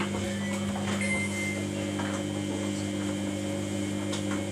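Steady electrical hum from a Samsung front-loading washing machine running in service mode while it heats the wash water, with a few faint clicks.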